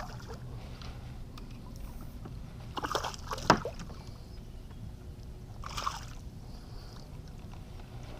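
Water splashing and sloshing against a kayak as a small hooked fish is brought alongside. There are two short, louder splashes, about three and a half seconds in and about six seconds in.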